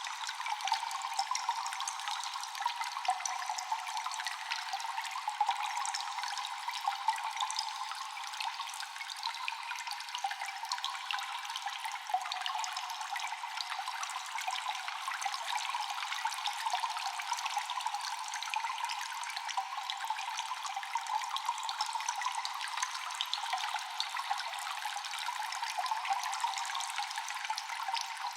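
Water dripping and trickling in a cave, with many small drips falling constantly over a steady wash of running water. The sound is thin, with no low end.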